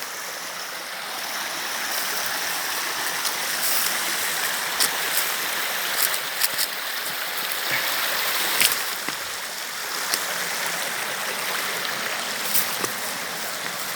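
Steady rush of river water flowing over rocks, with a few sharp clicks scattered through it.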